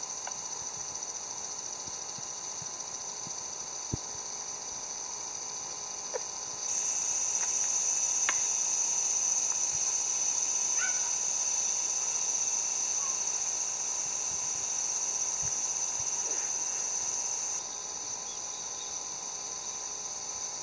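Summer insects chirring steadily at a high pitch, growing louder about seven seconds in and dropping back a few seconds before the end, with a few faint clicks.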